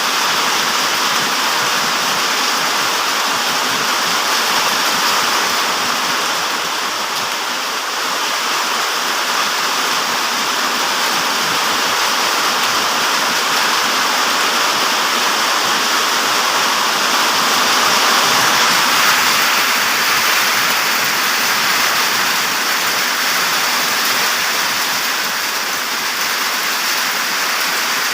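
Light rain falling in strong wind: a steady rushing hiss that swells slightly now and then.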